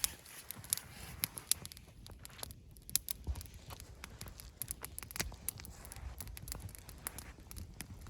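Wood campfire crackling, with irregular sharp snaps and pops as the freshly lit fire catches.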